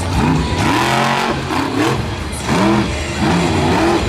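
Monster truck engine revving in a series of quick blips, its pitch rising and falling over and over.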